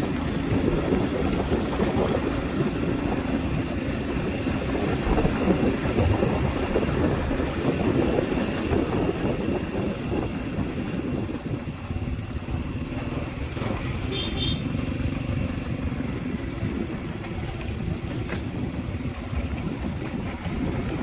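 Motorbike engine running under way, mixed with wind and road noise. A brief high double chirp sounds about fourteen seconds in.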